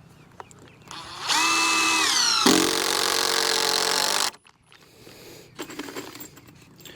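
Power drill running in two bursts: a steady whine that spins up about a second in, then a louder, rougher stretch under load of nearly two seconds, as when driving a screw into wood, that stops abruptly.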